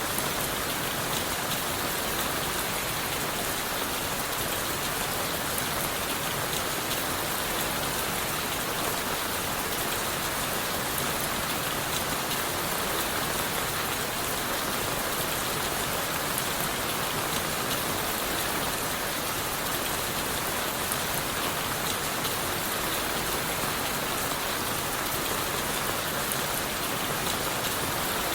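Steady rain falling on leaves and wood, a dense even patter of drops with no pauses.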